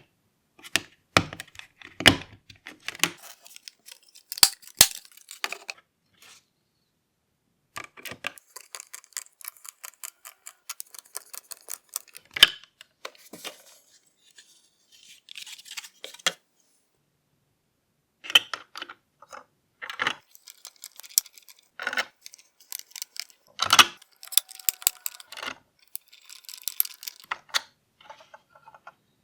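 Small parts of a transparent plastic engine model kit being handled and fitted together: an irregular run of sharp clicks, taps, clinks and light rustles, cutting off dead twice.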